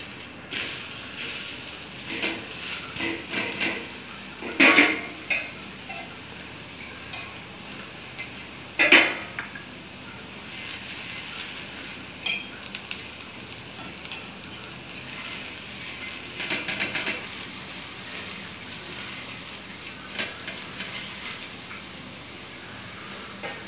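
Besan chilla sizzling on a hot tawa, with a metal spoon scraping and clinking against the griddle as oil is spread over it. There are two louder clanks, about 5 and 9 seconds in.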